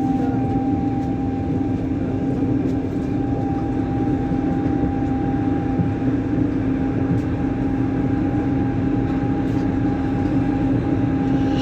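Lyon Metro Line B MPL 75 rubber-tyred metro train running between stations, heard from inside the car. A steady rolling rumble carries a constant low hum and a fainter higher whine from the traction equipment, with no change in speed.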